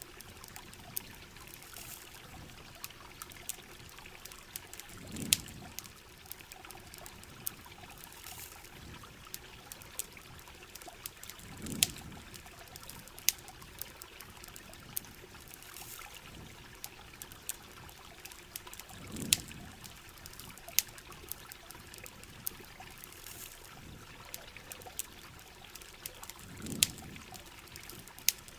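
Rain and running water trickling steadily, with sharp campfire crackles scattered throughout. A low, soft swell of water comes and goes about every seven seconds, evenly spaced like a loop.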